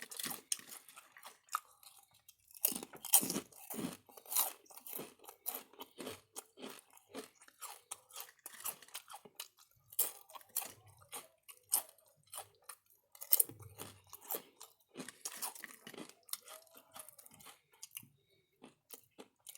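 Close-up chewing with many sharp, irregular crunches: a person eating crisp kettle-cooked barbecue potato chips.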